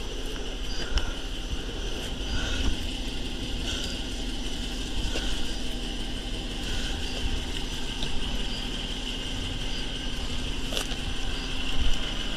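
Steady outdoor background: a continuous high-pitched drone over a low hum, with a short chirp that repeats about every second and a half.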